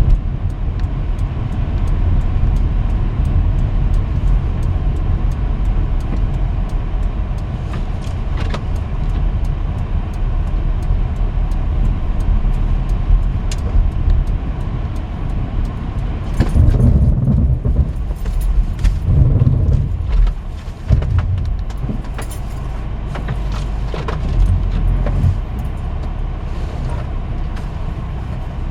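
Car driving in a snowstorm: steady low road and engine rumble with scattered small clicks and rattles. The rumble swells and surges for a few seconds just past the middle.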